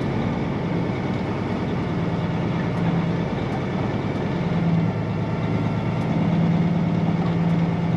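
Peterbilt semi truck's diesel engine running steadily at low speed, heard from inside the cab, a little louder in the second half.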